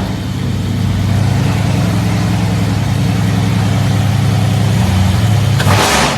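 Car engine idling steadily, with a short loud rush of air-like noise near the end.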